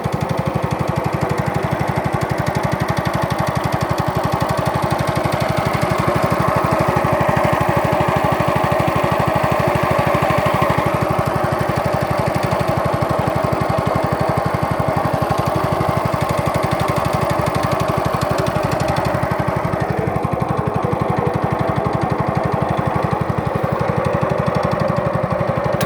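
A small boat's engine running steadily at a constant speed, a fast even chugging with no change in pace.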